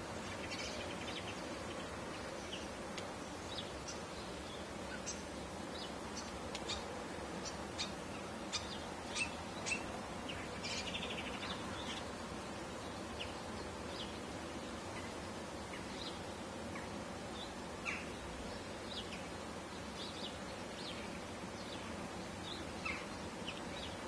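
Scattered short, high bird chirps and calls throughout, busiest about a third of the way in, over a steady background noise.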